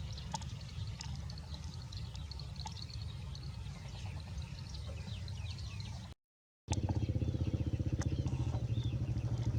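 A low rumble with scattered clicks and faint high chirps, broken by a half-second dropout about six seconds in. After the dropout, an engine runs with a rapid, even pulsing, louder than before.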